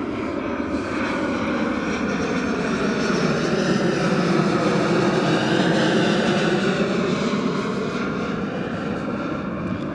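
Boeing 757-200 airliner on landing approach passing overhead: steady jet engine noise that swells to a peak about halfway through and then fades.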